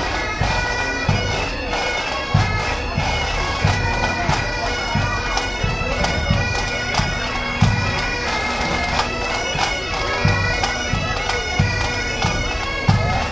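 Bagpipes playing a tune over their steady drone, with a low drum beat thudding at an even pace.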